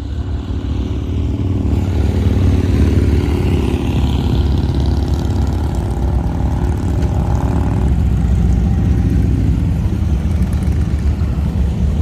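A motor vehicle's engine running steadily while on the move, a loud, low, continuous drone with road and wind noise over it.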